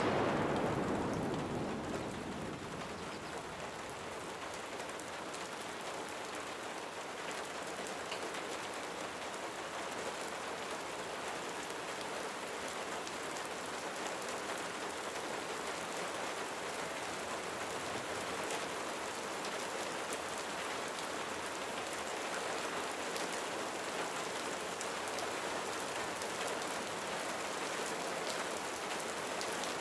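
Steady rain falling on a roof: an even hiss dotted with sharp drop hits, a little louder in the first couple of seconds.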